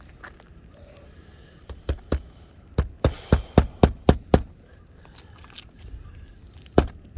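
Hard footsteps, sharp knocking steps about three a second in two runs, one from about two seconds in and another starting near the end.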